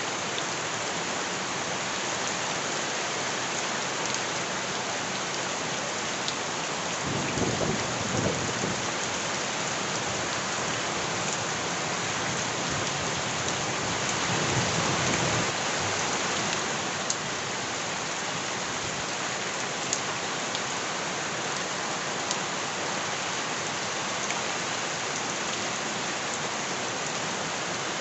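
Steady heavy rain falling, with two deeper rumbling swells, about seven and fourteen seconds in, each lasting a couple of seconds.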